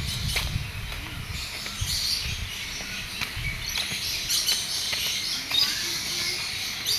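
Many small birds chirping and twittering, short high calls overlapping in quick succession.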